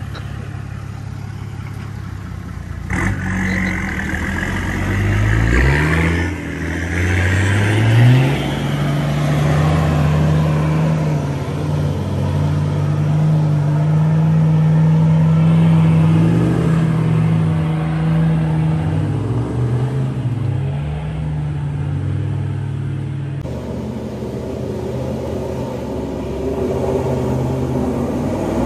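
4WD ute engine revving and pulling hard under load up a muddy hill while towing another 4WD on a snatch strap. The engine note climbs about three seconds in, then holds high with a few dips and rises in pitch. Near the end it cuts suddenly to a quieter engine running.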